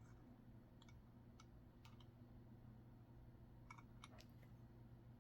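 Near silence: faint room tone with a low hum and a few faint, scattered clicks.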